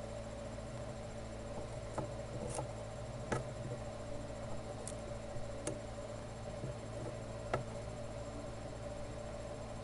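Steady low hum with about six light clicks and taps spread through the middle, the sharpest one near the end.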